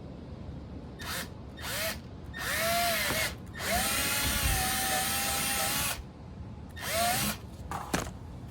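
Power drill run in short trigger bursts, its motor pitch rising and falling as it spins up and slows, then held for a steady run of about two and a half seconds, followed by another burst and a couple of quick blips near the end: drilling a bolt hole through thick strap or flap material.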